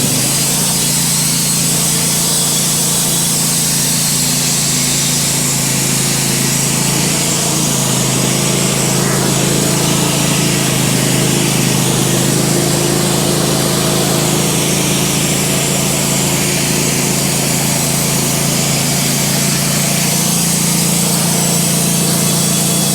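Wood-Mizer LT15 bandsaw sawmill running steadily under load, its blade sawing through a maple log in one long, even cut.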